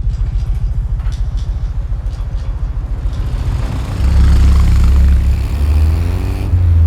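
Triumph motorcycle engine idling with a fast, even putter, then about four seconds in it is opened up and runs much louder, its pitch climbing.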